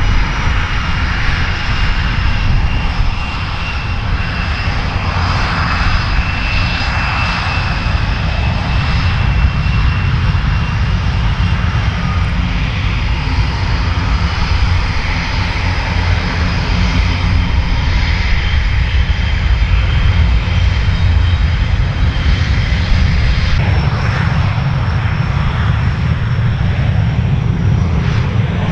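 Gloster Meteor T7's twin Rolls-Royce Derwent turbojets running: loud, steady jet noise with a high-pitched turbine whine over a deep rumble. The sound shifts about 23 seconds in.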